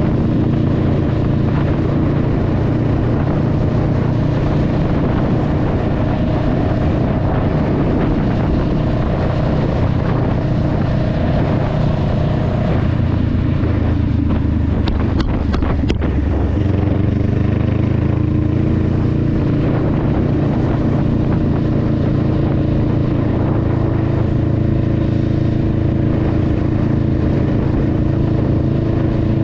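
Honda Rebel 500's parallel-twin engine running steadily under way. About halfway through, the engine note drops as the bike slows, with a few sharp clicks, then it picks back up and runs steadily again.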